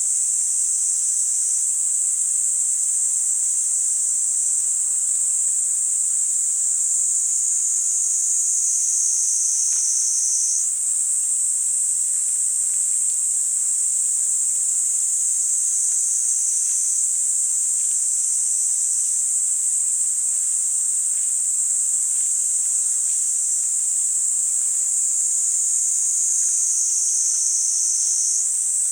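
Kaempfer cicadas (niinii-zemi) singing a continuous, high, shrill buzz. The pitch sags slowly and snaps back up about every eight or nine seconds.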